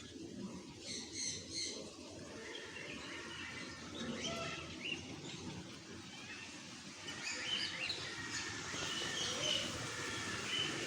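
Many birds chirping and calling at once, short overlapping high chirps that grow busier in the second half.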